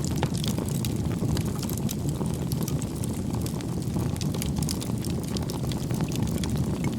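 Wood fire burning in a fireplace: a steady low rumble of flames with frequent sharp, irregular crackles and pops from the burning firewood.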